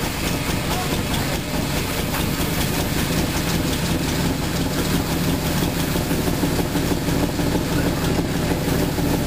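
Toyota 2JZ-GTE straight-six, converted to a single turbo, idling with a steady low rumble.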